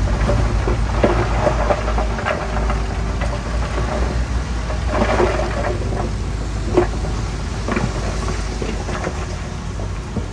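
Heavy diesel earthmoving machinery running with a steady low drone, over irregular clanks and knocks from the machine working soil.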